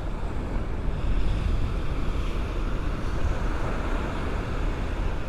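Ocean waves washing onto the shore, with wind rumbling on the microphone.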